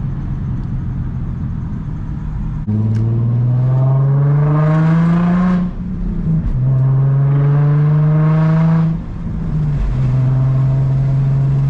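Infiniti G35's 3.5-litre VQ35 V6 through a straight exhaust with the muffler and resonator deleted, cruising steadily, then pulling hard about three seconds in with the pitch climbing. The note dips briefly at two upshifts of the six-speed manual, climbing again in between, and settles to a steady cruise near the end.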